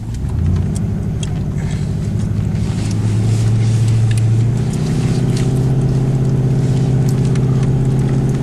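2000 Ford Explorer's 5.0-litre V8 accelerating under load up a hill. The engine note climbs for about four seconds, steps down about halfway through, then holds steady.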